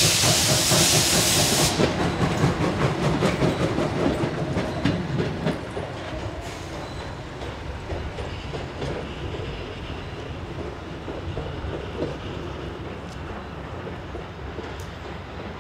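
Steam train hauled by the D51 steam locomotive passing: a loud hiss of steam cuts off about two seconds in, leaving the rumble and rhythmic clicks of the carriage wheels over rail joints, fading steadily as the train moves away.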